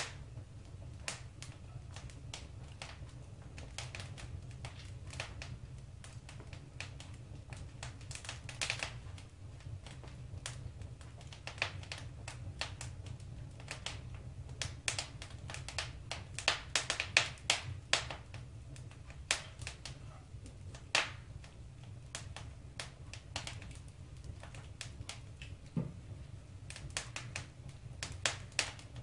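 Wood fire burning in a fireplace, crackling with irregular sharp pops and snaps over a steady low rumble of the flames; the crackling is busiest about halfway through.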